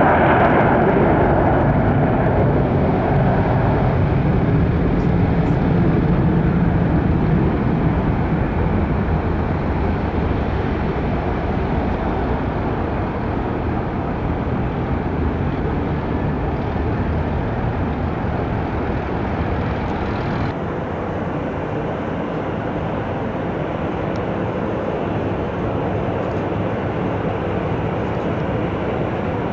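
Jet engine noise from a Boeing 737-800's CFM56 engines after landing, slowly fading as the airliner rolls away. About two-thirds of the way through there is an abrupt cut to a steadier, quieter roar of airport background noise.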